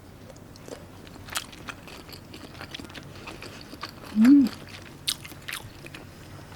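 A person chewing and biting food close to the microphone, with wet mouth clicks throughout. About four seconds in, a short hum from the eater rises and falls, the loudest sound.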